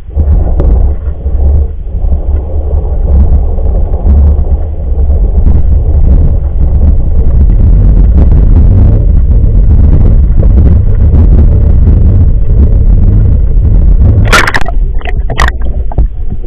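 Muffled low rumble and rustling from an action camera sealed in its waterproof housing as it is lowered down a well on a pipe, with two or three sharp knocks near the end.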